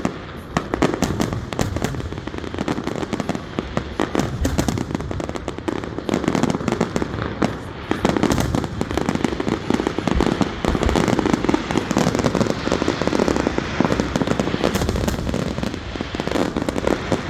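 Fireworks going off in a dense, continuous run of crackling pops and bangs, with low booms underneath.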